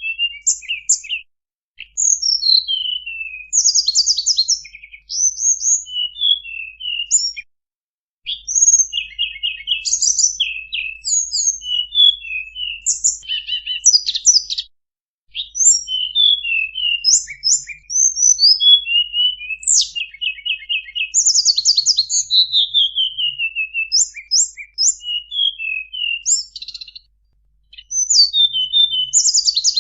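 Tledekan bambu bird song played as a lure call: a fast, varied string of high chirps, rapid trills and downslurred whistles, broken by short pauses about 1.5, 8, 15 and 27 seconds in.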